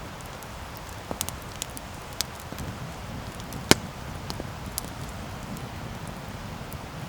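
Wood campfire burning, crackling with scattered sharp pops over a low steady rumble; the loudest pop comes about halfway through.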